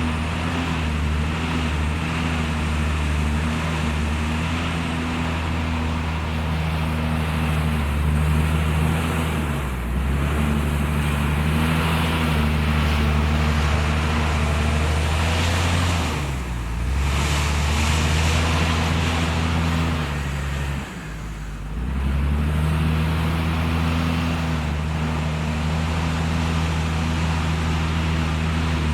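Diesel engine of heavy earthmoving machinery running steadily under load. Its note sags briefly three times, most plainly about 21 seconds in.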